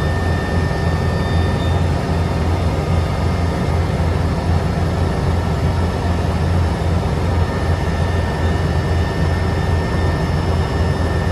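Helicopter in flight: a steady, loud drone with a fast low throb from the rotor and a few steady whining tones above it.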